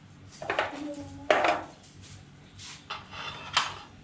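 Dishes and cutlery clattering on a table as a meal is served: a handful of sharp clinks and knocks, the loudest about a second in.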